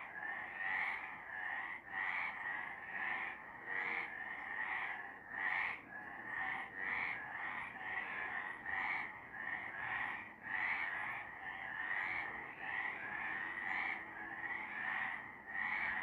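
Chorus of several frogs croaking, short calls overlapping and repeating about every half second without a break.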